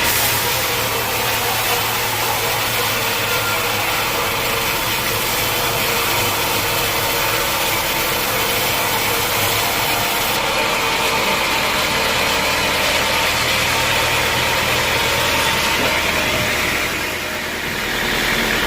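Sawmill machinery running steadily: a loud, even mechanical noise with an engine-like hum. It eases briefly about a second before the end, then comes back up.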